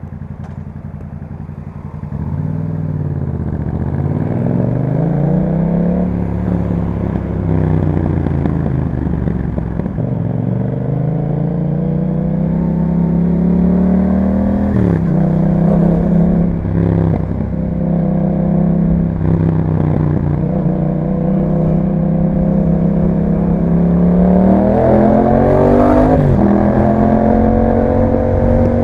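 2021 Yamaha MT-07's parallel-twin engine through an Akrapovic exhaust with a dB killer, riding off and accelerating through the gears. The revs climb and drop at upshifts about 6, 15, 17 and 26 seconds in, hold steady for a while in between, and climb again near the end.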